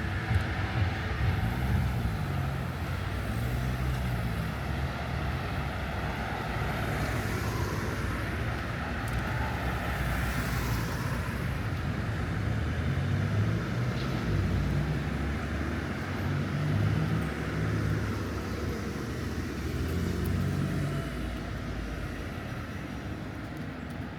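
City street traffic: motor vehicles running and passing, with a low engine hum that rises and falls in pitch and a couple of brief passing swishes.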